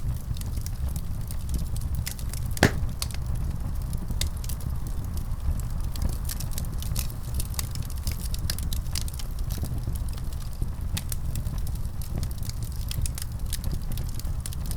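Wood fire crackling in a fireplace: many small snaps and one louder pop about two and a half seconds in, over a steady low rumble.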